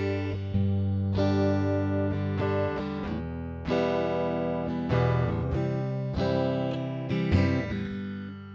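Electric guitar chords played through a JHS 3 Series flanger pedal. Each chord is strummed and left to ring out, about five times.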